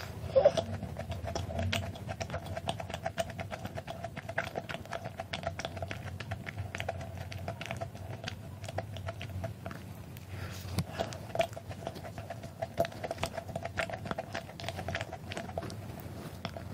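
Close-miked chewing of a thick-filled macaron with butter, red bean paste and green tea buttercream: an irregular run of small mouth clicks.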